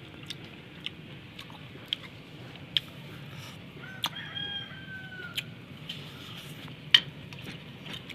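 Mouth clicks and lip smacks from chewing pork leg, with a sharp smack near the end. A rooster crows once in the background about four seconds in, one held call lasting a little over a second.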